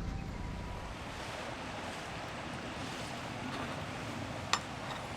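Steady rushing noise of water, with one sharp click about four and a half seconds in.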